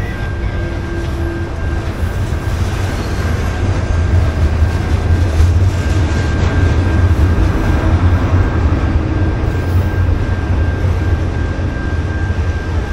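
A train running past, a steady heavy rumble with a thin high whine held throughout, growing loudest a few seconds in and then easing off.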